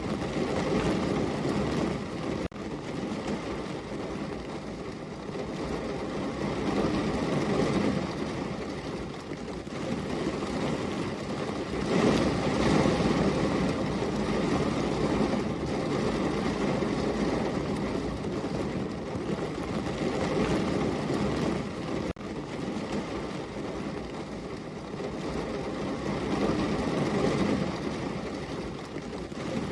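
Heavy rain falling steadily, a dense even hiss that swells and eases every few seconds, briefly dipping twice.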